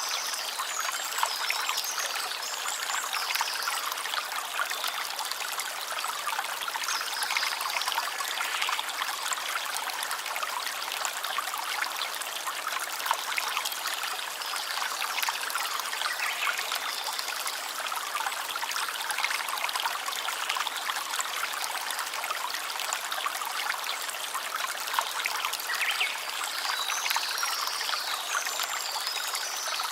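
A stream of running water trickling and splashing steadily, with a few faint high chirps near the start and again near the end.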